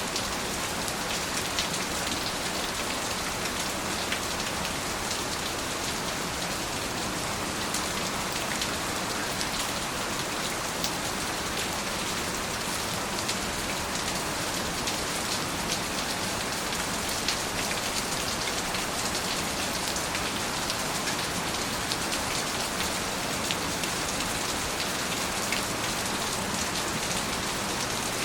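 Steady rain falling, a continuous hiss dotted with fine drop ticks. No thunder.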